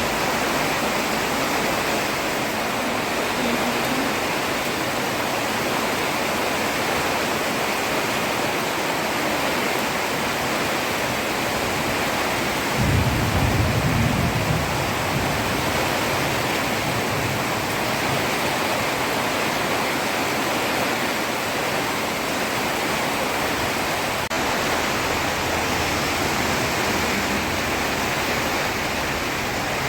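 Heavy rain falling on a road, a steady dense hiss. About 13 seconds in, a low rumble swells briefly for a second or two.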